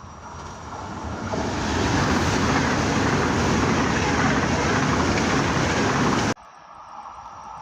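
Train passing close by at speed: a loud rushing noise that builds over the first two seconds and holds, then cuts off abruptly a little over six seconds in, leaving a quieter steady background.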